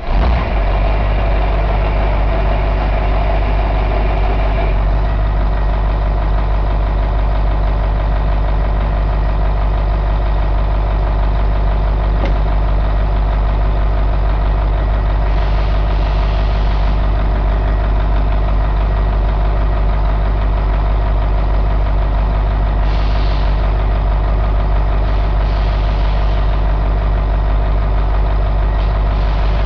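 Caterpillar 3208 V8 diesel engine running steadily at idle, its tone settling slightly about five seconds in. A few brief hisses come and go.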